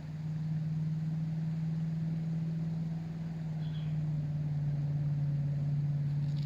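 A motor running steadily, a low even drone, with a couple of short faint high chirps over it.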